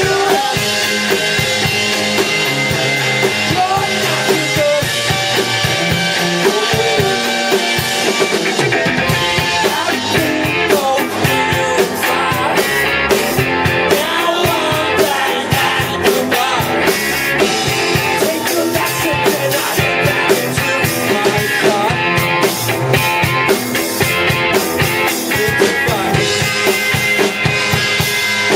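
Live punk rock band playing loudly: electric guitar and drum kit, with some singing.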